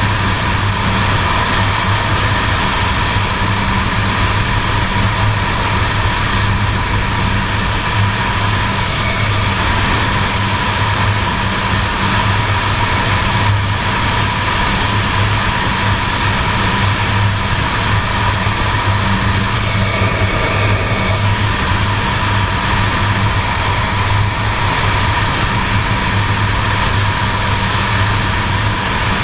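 A 1978 Suzuki GS750's air-cooled inline-four engine running steadily at cruising speed, under heavy wind noise on the microphone.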